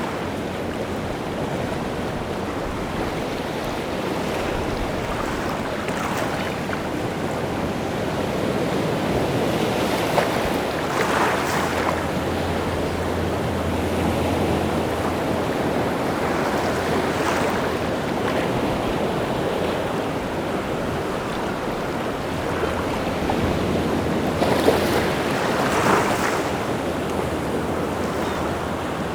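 Rough sea surf: waves breaking and washing on the shore in a steady rush, with heavier breakers swelling about ten seconds in and again near the end, and wind on the air.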